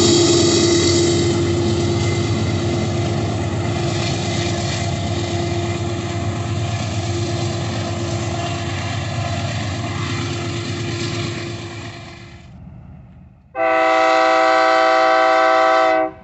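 A train running loudly through the yard, its noise slowly fading away. Then a locomotive horn sounds one long, steady multi-note blast of about two and a half seconds that starts and stops abruptly.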